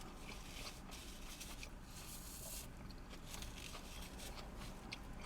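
Faint chewing and mouth noises from eating a Whopper burger, with soft scattered ticks over a low background hum.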